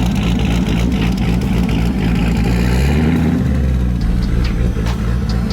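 Twin-turbo V8 of a 2006 Corvette Z06 running hard on a chassis dyno, its engine note shifting about three seconds in. Quick sharp ticks come through over the engine near the end.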